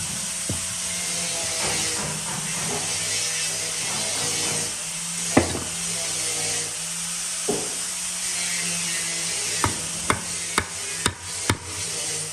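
Hammer knocks on wood over a steady machine hum and hiss. A few single knocks come first, then five quick knocks about half a second apart near the end.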